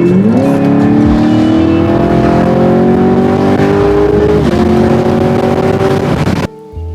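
Car engine accelerating hard, its pitch jumping up and then climbing steadily, with one drop for an upshift about four and a half seconds in before it climbs again. It cuts off abruptly near the end.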